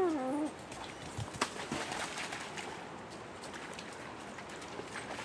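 Steady rush of a shallow mountain stream, with scattered sharp clicks and knocks among the rocks. A voice sliding down in pitch trails off about half a second in.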